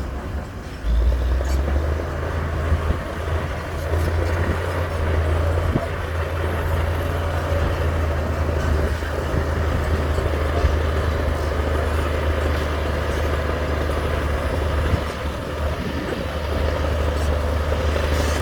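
Heavy diesel engine of earthmoving machinery running steadily under load with a deep, continuous hum, getting louder about a second in.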